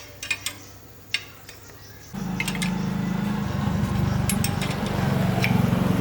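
A few light metal clinks, then about two seconds in a machine's motor starts abruptly and runs steadily and loudly, with scattered clicks over it.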